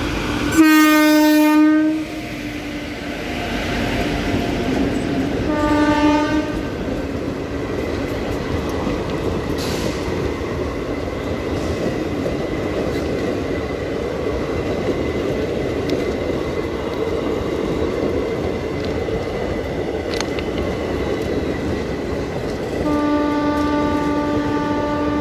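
Electric locomotive horn sounding a loud blast about a second in and a short toot around six seconds, then the steady rumble and wheel clatter of a WAP-7 hauling an empty DEMU rake past on the rails, with another long horn near the end.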